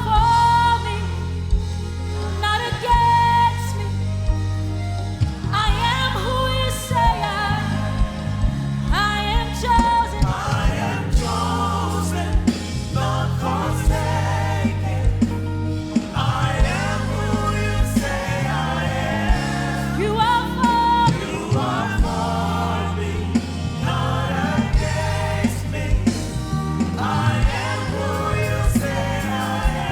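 Gospel worship music: voices singing over a steady instrumental accompaniment.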